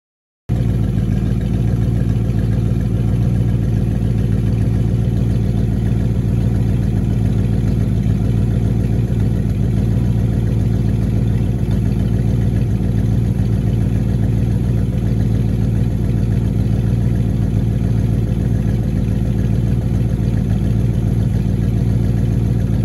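1967 Chevelle SS 396 big-block V8 idling steadily.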